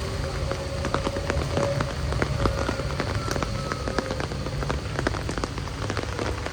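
Heavy rain, with a dense run of individual drops striking hard close to the microphone over a steady wash of rainfall. A faint steady hum sits underneath.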